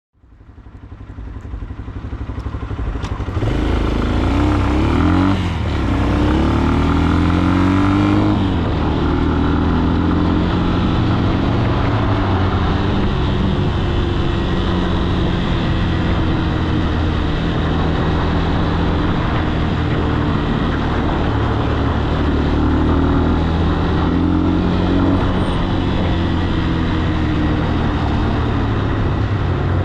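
Falat 200 cc single-cylinder motorcycle engine running under way, fading in over the first few seconds. Its pitch rises and falls several times as it revs through the gears, then it settles into a steady cruise with small changes in pitch.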